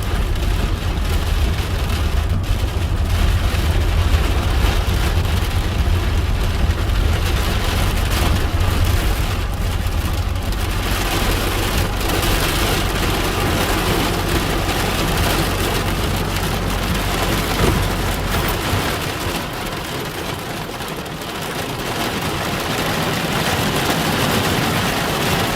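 Heavy rain beating on a car driving through a thunderstorm, over a steady low road and engine rumble. The rain grows louder about eleven seconds in, and the low rumble drops away about eighteen seconds in.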